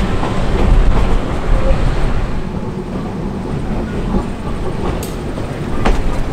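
Heritage train running along the track: a steady low rumble of the wheels on the rails, with a couple of sharp clicks about five and six seconds in.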